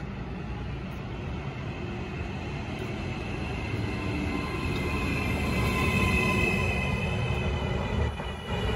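A Trenitalia Hitachi Rock double-deck electric train approaches and runs past alongside the platform. It grows steadily louder, with a rumble and a high whine that builds about halfway through.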